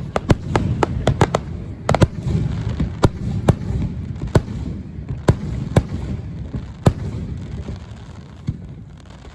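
Fireworks display going off: a quick run of sharp bangs in the first second and a half, then separate bangs about a second apart over a low rumble that dies down near the end.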